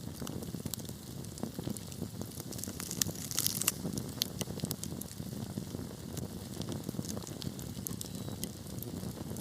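Burning wood fire crackling: scattered sharp pops and snaps over a low, steady rumble of flames, with a brief flurry of pops about three seconds in.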